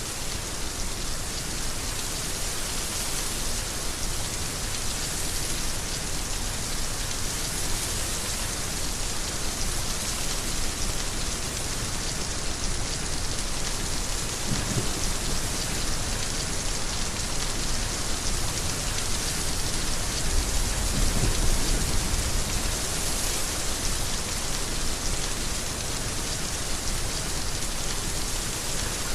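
Heavy rain falling steadily, a dense even hiss of drops, with low rumbles of distant thunder: a faint one about halfway through and a stronger, longer one about two-thirds through.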